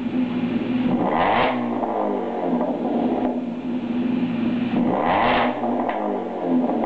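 Ford Focus 2.0 idling through an aftermarket Thunder exhaust (header, mid pipe and single-outlet muffler), revved twice: about a second in and again about five seconds in, the note rises and falls back to idle.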